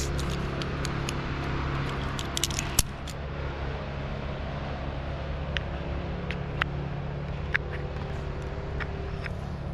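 A large engine running steadily at idle, with light metallic clinks and clicks scattered over it, most of them in the first three seconds.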